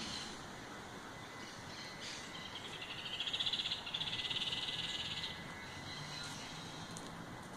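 A frog calling with a high, rapid trill in two long runs, the first starting a little after two seconds in and the second ending a little after five seconds, with a short break between them.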